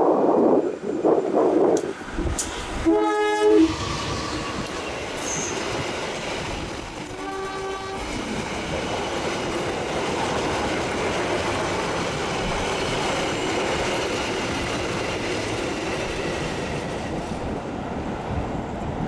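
Diesel locomotive hauling a passenger train passes close by, its engine loud for the first couple of seconds. The train horn sounds loudly at about three seconds, and a shorter, fainter horn blast follows a few seconds later. Then comes a steady rumble and clatter of the coaches' wheels on the rails as the train runs past.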